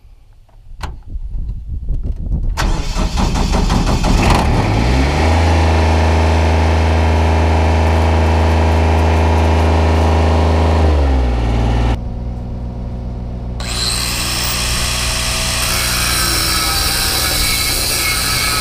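An engine cranks and catches, then runs at a steady speed with a clear hum for several seconds. About eleven seconds in its pitch drops and it runs on rougher, joined by a steady hiss for the last few seconds.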